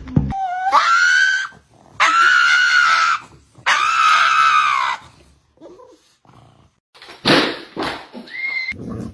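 Dog giving three long, high-pitched howling cries, the first rising in pitch and the next two held steady. A short noisy yelp and a brief higher cry follow near the end.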